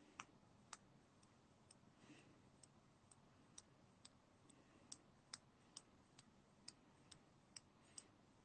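Near silence with faint light clicks, about two a second.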